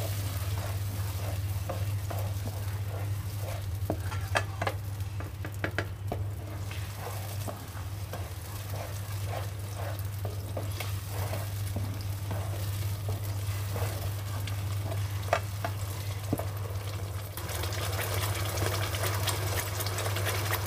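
Spinach paste sizzling as it fries in oil in a nonstick kadai, stirred and scraped round the pan with a plastic spatula, with many soft knocks of the spatula. A steady low hum runs underneath.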